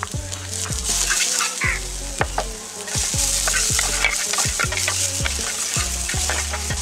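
Chopped ginger, garlic and green chillies sizzling in hot oil in a frying pan, with a metal ladle stirring and clicking against the pan many times.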